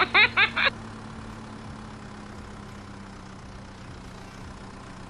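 Engine idling with a steady low hum. It is preceded by a quick run of high, pitched chirps that stops about half a second in.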